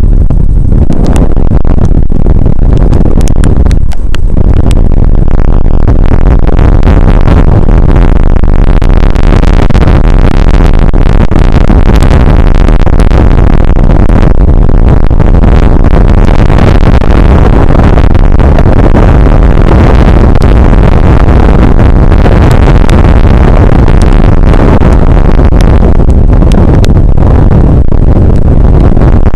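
Rain shower on an outdoor weather camera's microphone: a loud, constant rush of noise, heaviest in the low end, with scattered sharp ticks. The upper part of the noise fills out a few seconds in.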